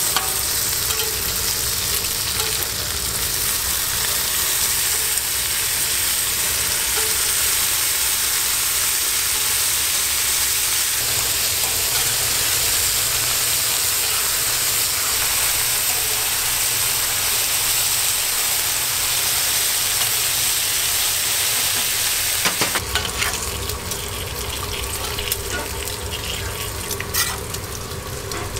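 Bacon strips sizzling on a flat-top steel griddle, a steady high hiss, while a metal spatula turns them. About 22 seconds in the sound changes abruptly to a lower, quieter sizzle of beef patties frying, with scattered clicks and scrapes of the spatula on the griddle.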